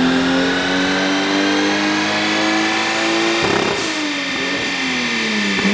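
Toyota Supra's twin-turbo 2JZ-GTE straight-six revving up steadily under full load on a chassis dyno, on a pull at about 12 psi boost. About three and a half seconds in there is a short rushing burst and the revs then fall away steadily as the throttle is released.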